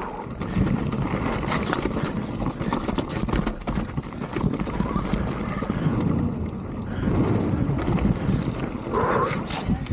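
A mountain bike moving over a rough, wet trail: a continuous clatter of small knocks and rattles with tyre noise.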